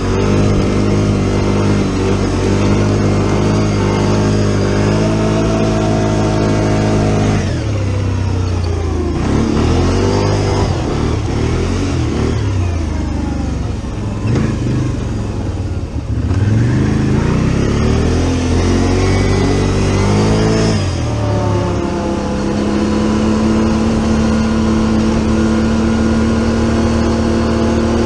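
Engine idling steadily, then revved up and down several times for about thirteen seconds, then settling back into a steady idle.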